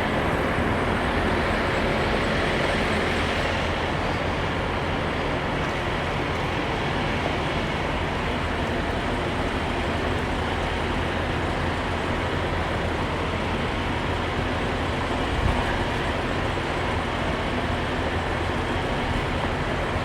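Semi truck's diesel engine running steadily, heard from inside the cab as a low drone under a steady rushing noise, with one brief bump about fifteen seconds in.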